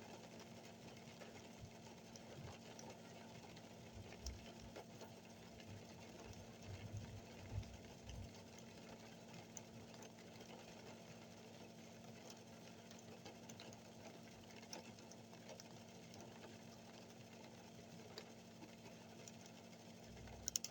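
Near silence: a faint steady hum, with a few soft low thumps about four to eight seconds in.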